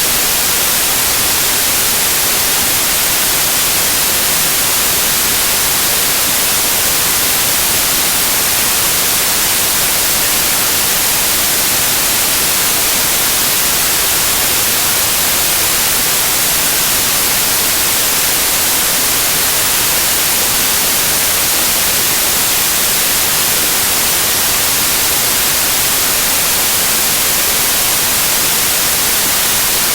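Loud, steady white noise: an even hiss, strongest in the high frequencies, with no change.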